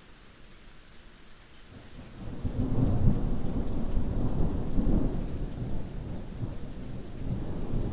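Steady rain hiss, with a rolling thunder rumble that builds about two seconds in and keeps rumbling loudly through the rest.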